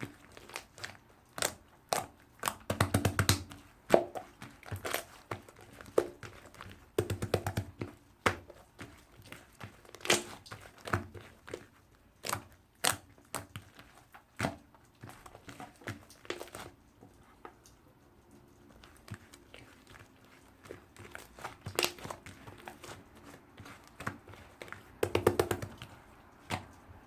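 Slime being squeezed, poked and folded by hand, making irregular sticky clicks and pops. Three times, at about 3 s, about 7 s and near the end, it gives a quick run of crackling air-pops.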